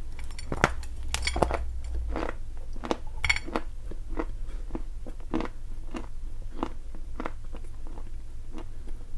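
A hard lump of edible earth (the chalk and clay eaten for their crunch) being bitten and chewed. Several loud, sharp crunches come in the first few seconds, followed by softer crunching chews about every half second.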